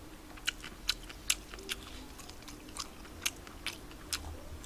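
A person chewing spicy tteokbokki (chewy rice cakes in sauce) with the mouth close to the microphone: soft, wet mouth clicks about twice a second.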